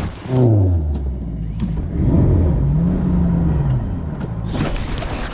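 Boat motor running with a low, steady drone. Its pitch drops early on, then rises and falls once in the middle, as the motor speeds up and slows.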